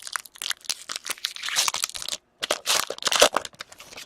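Wrapper of a hockey card pack being torn open and crinkled by hand, a quick run of irregular crinkles and rustles.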